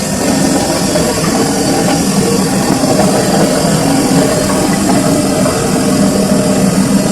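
Samsung washing machine running a full load, with a loud, steady motor hum.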